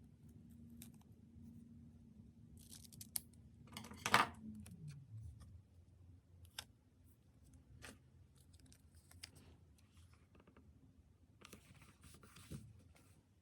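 Scissors snipping paper and sticker sheets, with light taps and rustles of paper being handled. The loudest snip comes about four seconds in.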